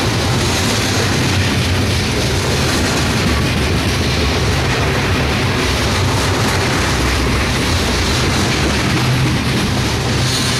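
Empty covered hopper cars of a freight train rolling past close by, their steel wheels running on the rails in a steady, unbroken noise.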